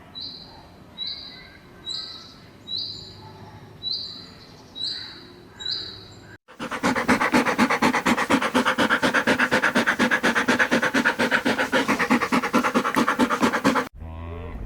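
A bird's short, high call repeated seven times, about once a second. After a cut, a loud, rapid, pulsing animal sound runs for about seven seconds.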